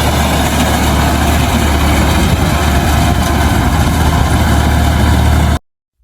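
Tractor engine idling steadily with a strong low hum; it cuts off abruptly near the end.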